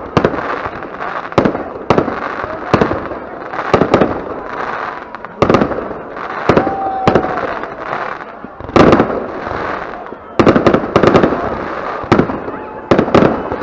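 New Year fireworks display: aerial shells bursting in quick, irregular succession, a dozen or more sharp bangs, each trailing off into a crackling, hissing tail.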